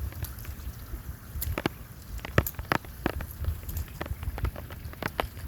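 Rain falling, with individual drops striking close by as irregular sharp ticks, over a steady low rumble.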